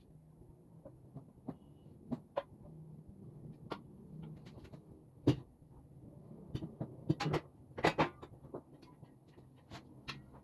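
Parts of a flat-pack work table being handled during assembly: irregular light clicks and knocks, the loudest knock about five seconds in and a quick cluster of them around seven to eight seconds, over a faint low hum.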